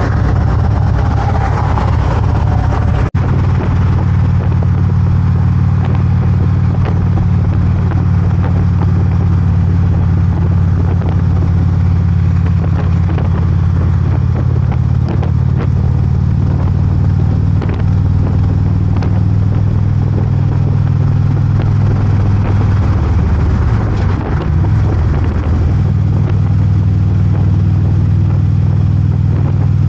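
Harley-Davidson V-twin motorcycle engine running steadily at road speed, with a brief dip and recovery in the engine note about three-quarters of the way through.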